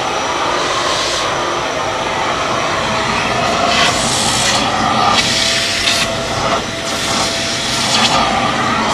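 Kärcher MV 6 P Premium wet/dry vacuum cleaner running, its motor giving a steady whine. The suction hiss swells and brightens several times as the nozzle is worked over surfaces.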